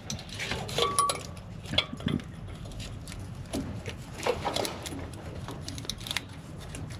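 Scattered light clicks and clinks of hands fitting a new fuel filter and pushing the quick-connect fuel lines onto it, over a low steady hum.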